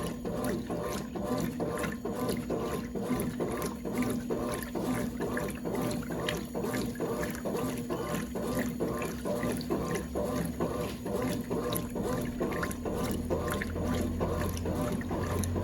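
Brastemp Clean 5 kg washing machine agitating a load, water sloshing in an even rhythm of about two or three strokes a second. A low hum comes in near the end.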